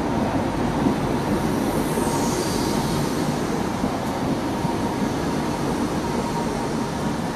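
A High Speed Train's Mark 3 coaches rolling slowly past, with a steady rumble of wheels on rail and a brief faint high squeal about two seconds in.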